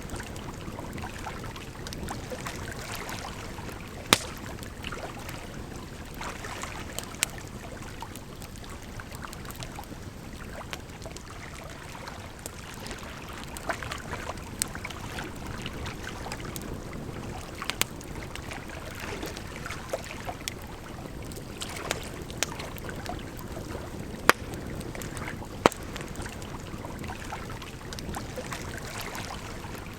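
Wood campfire crackling, with sharp pops every few seconds, over a steady rush of flowing water.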